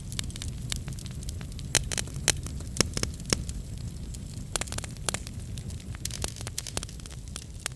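Wood fire crackling in a fireplace: irregular sharp pops and snaps over a steady low rumble of burning, with a few louder pops about two to three seconds in.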